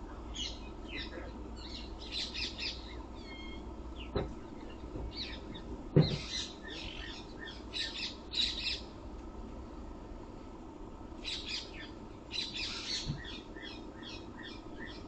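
Birds chirping and squawking in quick clustered bursts, with a sharp knock about four seconds in and a louder thump about two seconds later.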